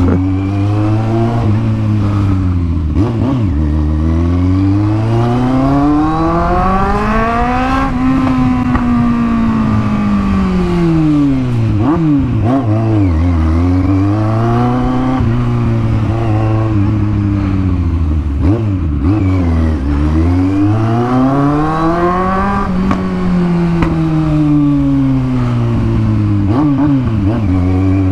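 Kawasaki Z750 inline-four motorcycle engine through an aftermarket exhaust, running loud as the rider repeatedly accelerates and eases off. The pitch climbs and falls in long sweeps every few seconds.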